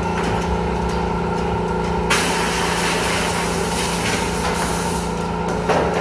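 A machine running with a steady hum, joined about two seconds in by a loud hiss of rushing air that lasts about three and a half seconds and then stops.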